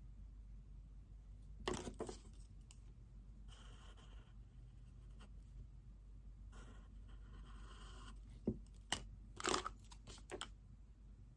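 Pen writing on paper in two longer scratchy stretches, with a few sharp clicks and rustles from things handled on a desk about two seconds in and again near the end.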